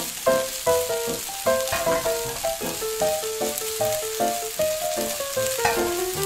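Rice frying in oil in a miniature saucepan, a fine steady sizzle, stirred with a tiny spoon. Background music plays over it, a melody of short notes about two or three a second.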